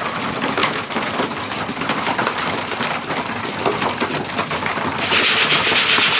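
Racing pigeons in the loft flapping and rustling about, with a few soft coos. The flutter of wings grows louder about five seconds in.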